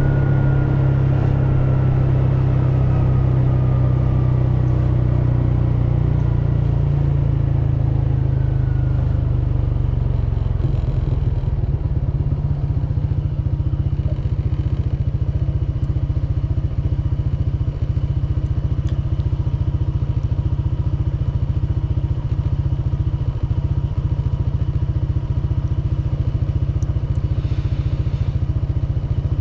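Honda PCX scooter's single-cylinder engine slowing, its pitch falling over the first eight seconds or so, then settling into a steady, low, pulsing idle.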